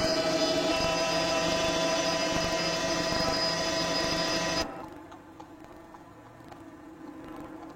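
Steady mechanical whine made of several held tones over a noisy hum. About four and a half seconds in it drops away abruptly to a much fainter hum.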